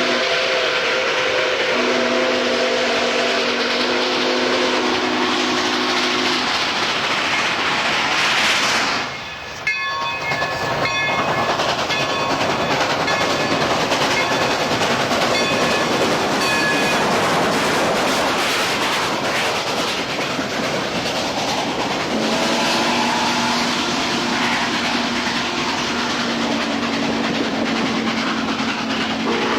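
A train running past with a steady roar, its multi-note chime whistle sounding a long chord in the first several seconds and again in the last seven or so seconds, with a brief drop in level about nine seconds in.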